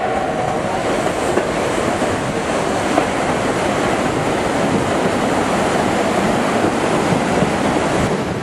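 Durango & Silverton narrow-gauge steam train running along the track: a steady, even noise of the moving train.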